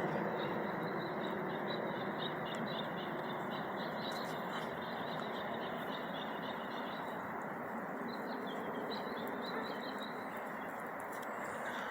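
Distant airplane passing overhead, a steady rumble that slowly fades, with small birds chirping rapidly on and off through it.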